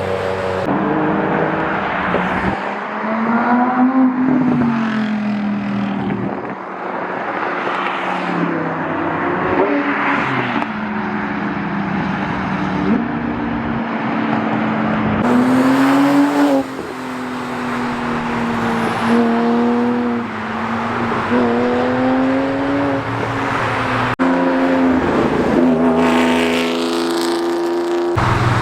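Cars accelerating hard past one after another, their engines revving, the pitch climbing and dropping again and again as they shift gears, with sudden jumps from one car to the next.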